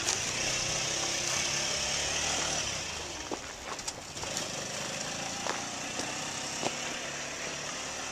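Small motor scooter engine running, then fading away about three seconds in as the scooter moves off.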